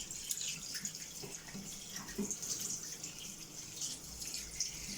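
Cold tap water running into a kitchen sink as a small whole chicken is rinsed under it, with a few soft knocks from handling.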